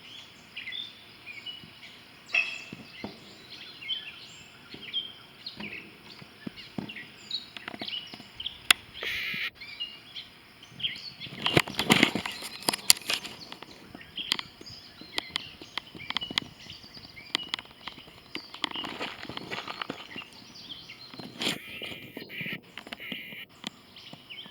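Wild birds chirping in short calls, over scattered sharp clicks and a louder burst of noise about halfway through.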